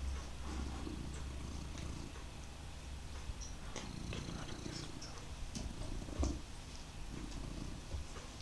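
Domestic cat purring loudly, excited by a valerian pillow, with scattered clicks and rustles and one louder thump about six seconds in.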